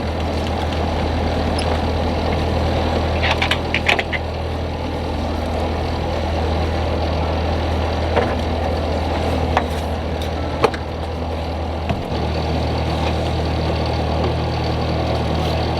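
A sailboat's inboard engine running steadily at low speed, with a few sharp knocks on board.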